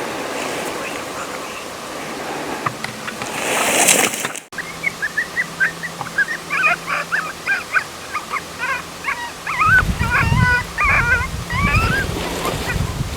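Rushing noise that builds and is cut off about four and a half seconds in, then a long run of quick, high yips and whines in the manner of coyotes, with low rumbling thumps over the later part.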